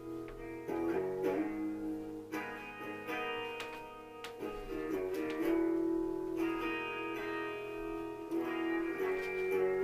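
Harley Benton HB ES-1335 semi-hollow electric guitar playing a fairly clean melodic passage, with notes and chords changing every second or so and ringing out between the picks.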